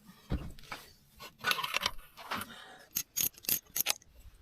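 Metal parts of an outboard's lower unit being handled during strip-down. There is a knock, then a scrape, then a quick run of sharp metallic clicks near the end.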